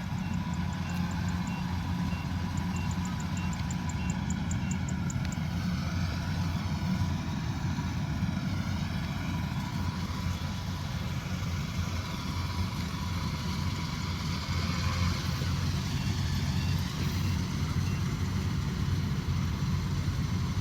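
Combine harvester's engine running steadily, an even low hum.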